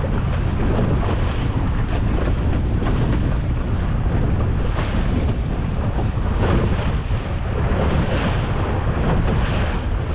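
Wind buffeting the microphone over a small boat's motor running at trolling speed, with choppy water slapping the hull.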